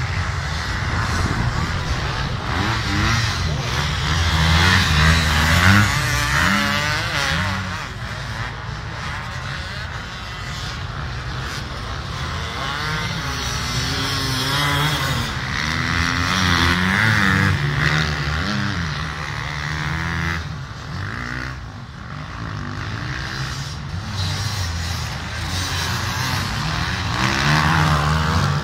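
Race motorcycle engines revving on the beach course, their pitch repeatedly rising and falling as the bikes accelerate and pass.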